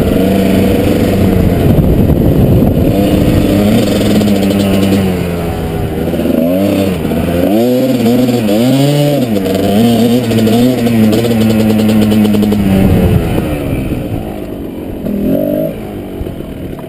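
Kawasaki KDX220 two-stroke single-cylinder dirt bike engine being ridden, its revs rising and falling with the throttle, with several quick blips about halfway through. Near the end it drops to a lower, quieter pitch as the bike slows.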